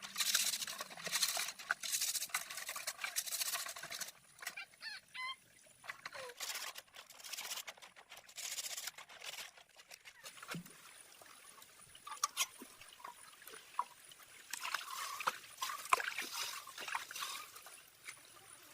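Water pouring and splashing in three spells of a few seconds each, with a short chirping call about five seconds in.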